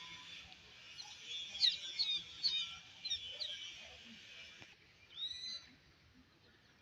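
Birds chirping in quick, sharp notes over a steady high hiss-like chorus that cuts off a little before five seconds in. A single longer call follows just after.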